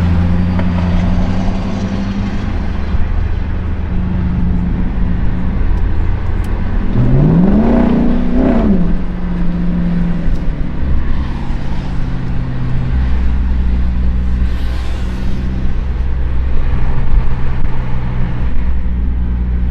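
Straight-piped Hemi V8 of a 2022 Chrysler 300 S droning steadily at highway speed, heard from the cabin. About halfway through the engine pitch rises smoothly and falls back once, as if the throttle is briefly opened.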